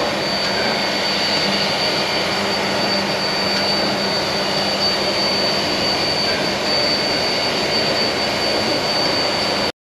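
Reading T-1 steam locomotive standing with steam up: a steady hissing roar with a constant high-pitched whine over it. The sound cuts off suddenly near the end.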